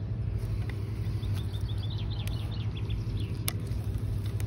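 A bird chirping a quick run of short, high notes over a steady low background rumble, with one sharp click about three and a half seconds in.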